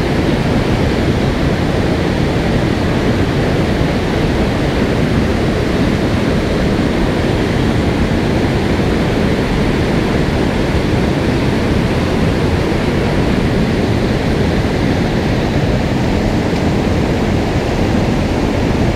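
Mountain stream water rushing over rocks, a steady loud roar.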